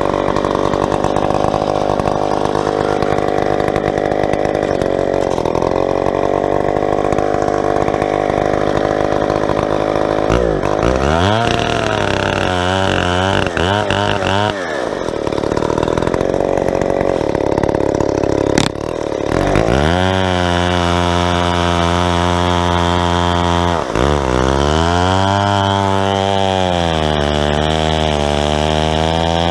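Big two-stroke Stihl 090 chainsaw in a homemade chainsaw mill, ripping lengthwise through a tulip poplar log, running steadily under load at first. From about a third of the way in, its engine speed swings up and down repeatedly, with one sharp click in the middle.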